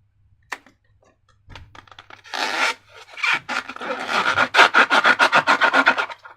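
Slime being squeezed and worked by hand in a slime-filled balloon, giving a rapid run of sticky clicks and crackles that starts about a second and a half in and thickens about halfway through.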